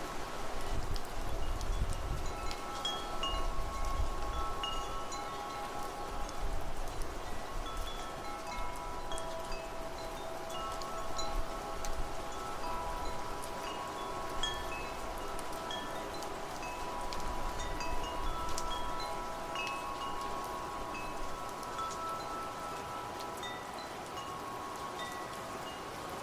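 Wind chimes ringing irregularly, many overlapping metallic tones struck at random as the wind moves them, over a steady hiss of rain and wind. Low gusts of wind rumble in the first few seconds and again a little past the middle.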